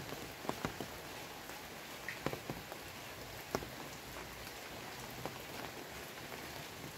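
Steady rain falling, an even hiss with irregular louder taps of single drops landing close by.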